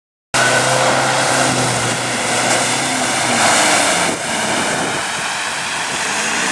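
Off-road 4x4 vehicle engines running, with a loud steady noise over the engine note. The sound cuts in abruptly just after the start.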